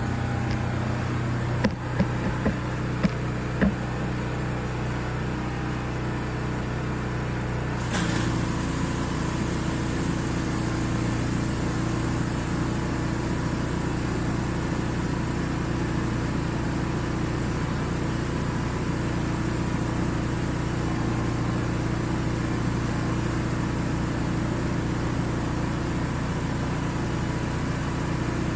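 Pressure washer's gas engine running steadily under load, with a few sharp clicks in the first few seconds and a sudden change in its tone about eight seconds in.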